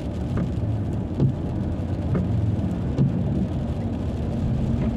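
Car driving on a highway: steady road and engine rumble, with a few light thumps about once a second.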